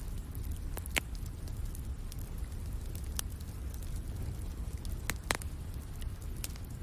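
Wood fire in a fireplace crackling, with scattered sharp pops, the loudest about a second in and two close together around five seconds in, over a steady low rumble.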